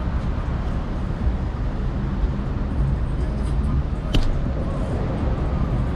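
Steady city traffic noise and low wind rumble heard from a moving bicycle, with one sharp click about four seconds in.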